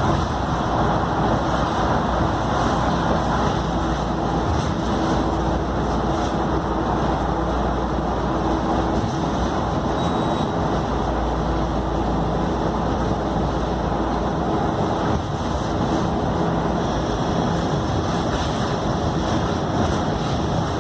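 Scania K310UD double-decker bus running, its five-cylinder diesel engine and drivetrain making a steady drone.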